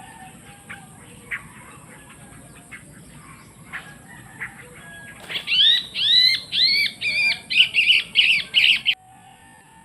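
A bird calling: scattered faint chirps, then from about five seconds in a run of loud, harsh calls that each rise and fall in pitch, about two a second, stopping suddenly about a second before the end.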